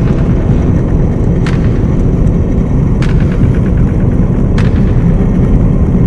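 Ford Focus RS's turbocharged 2.3-litre four-cylinder under full throttle near its top speed, heard from inside the cabin as a loud, steady roar mixed with wind and road noise. A sharp knock cuts through about every second and a half.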